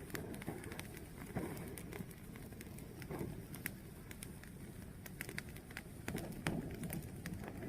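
Fire burning, with irregular sharp crackles and pops over a steady low rush of flame.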